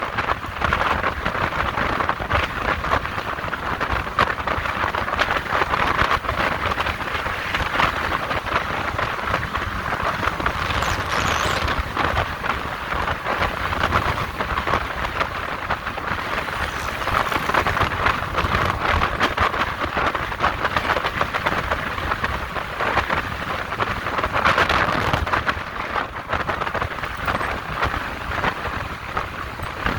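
Steady rushing wind and road noise while riding a motorcycle, with a low rumble underneath.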